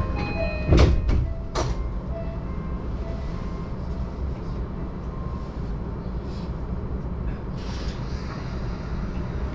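Yamanote Line train doors sliding shut with two sharp knocks about a second in, among a few short tones. Then the carriage's steady low rumble.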